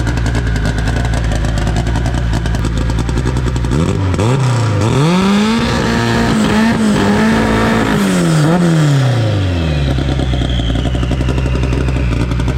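Car engine idling, revved up about four seconds in and held at higher revs with a few small blips, then dropping back to idle about ten seconds in. A faint high whine falls away as the revs come down.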